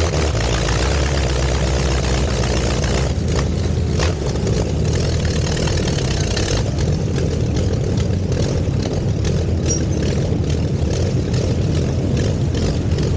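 Curtiss OX-5 V8 aero engine of the Luxior special running steadily at low revs as the car moves slowly.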